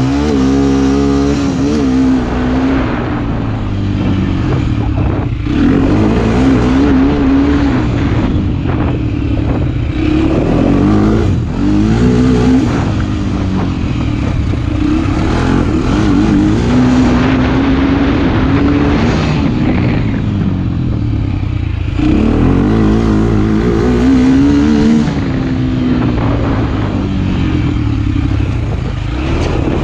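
Motorcycle engine running under way, its pitch climbing and dropping again and again as the bike accelerates, shifts and eases off.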